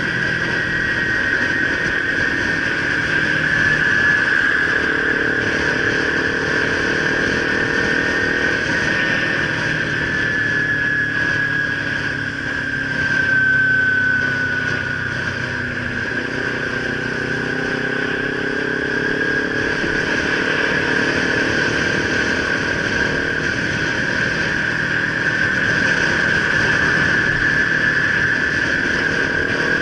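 Kawasaki Ninja 300's parallel-twin engine running under way, its note rising as it accelerates twice, with wind and road noise and a steady high-pitched whine over it.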